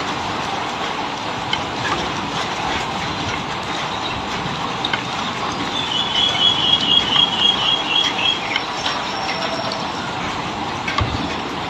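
A bulbul gives a rapid chattering run of about a dozen short notes over roughly two seconds, about six seconds in. It sounds over a steady rushing hiss.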